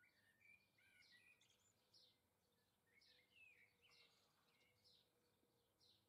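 Faint small songbirds chirping and twittering: short high chirps about every half second, with quicker warbling notes about a second in and again around three seconds in.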